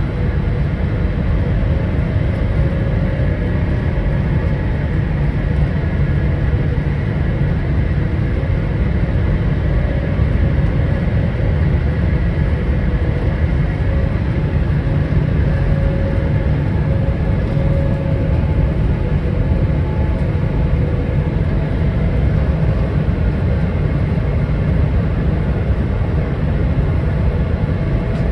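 Steady jet cabin noise inside a Boeing 777-300ER in flight: a constant deep rumble from the engines and airflow, with a faint hum held steady throughout.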